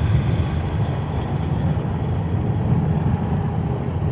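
Steady low drone of road and engine noise inside a pickup truck's cab at highway speed, about 75 mph.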